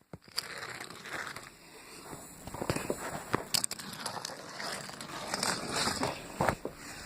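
Toy train being moved along its track: a continuous crackly rattle with many scattered clicks.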